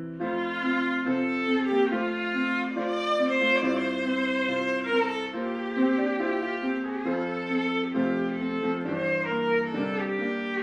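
Violin music: bowed notes held and changing about every second, with several parts sounding together.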